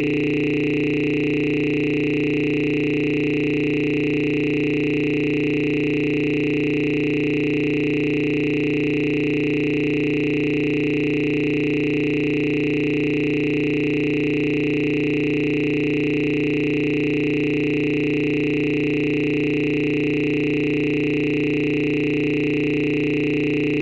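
A steady electronic tone made of several fixed pitches, a low hum with a strong mid-range chord and a high whine on top, holding at one level without any change.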